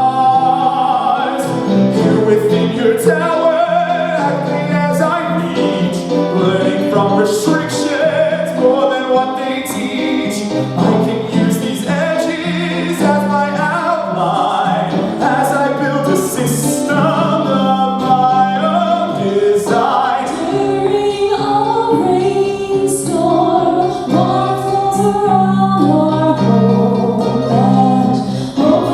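A show tune sung live with instrumental accompaniment: a singer's voice carries the melody over steady held chords.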